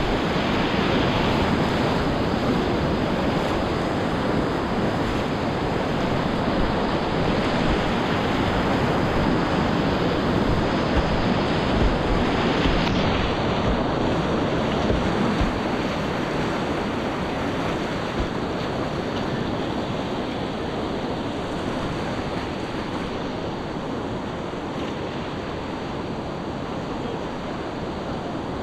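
Whitewater rapids of a grade III river rushing around a kayak: a steady, loud rush of water that eases slightly in the second half.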